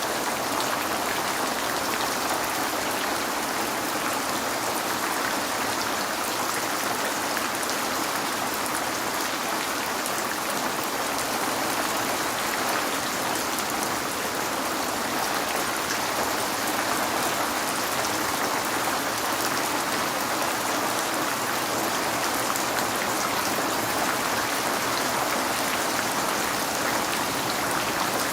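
Steady rain falling on a window pane: a dense, even patter of drops with no letup and no thunder.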